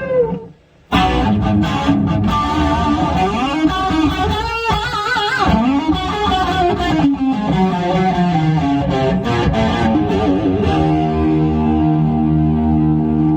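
Electric guitar played through a multi-effects pedal: a lead line with bent notes after a short pause, then a chord left ringing near the end.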